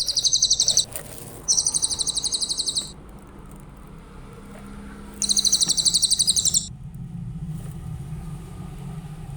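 Cililin bird singing: three bursts of very fast, high-pitched trilling, each a second or so long, with pauses between. A low steady hum runs underneath.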